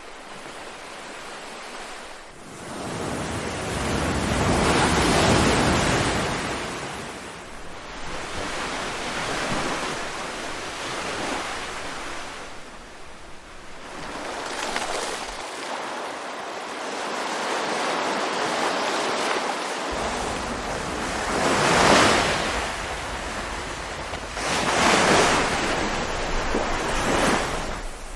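Ocean waves breaking and washing in, slow swells of surf that build and fall back over several seconds, the strongest about five seconds in and two more near the end.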